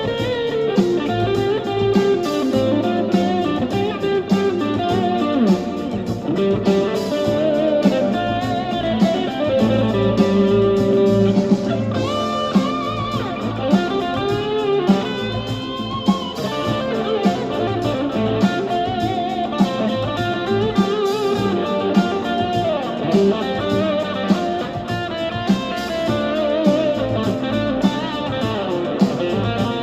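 Electric guitar playing an improvised blues solo with string bends and vibrato over a blues backing track in D minor.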